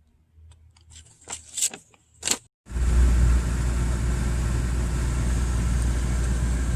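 A few sharp clicks and rustles, then, after a sudden break, a steady low rumble with hiss, like a vehicle engine running.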